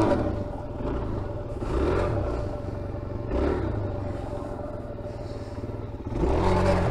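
Motorcycle engine running at low speed, its note swelling and easing several times with short openings of the throttle.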